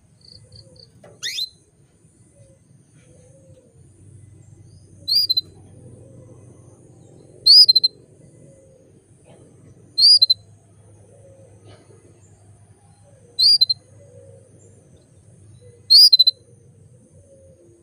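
Female canary calling: a short high chirp ending in a quick little trill, repeated five times about every two and a half seconds, after one falling whistle about a second in. It is the call of a hen in breeding condition calling to a male. A faint low hum runs underneath.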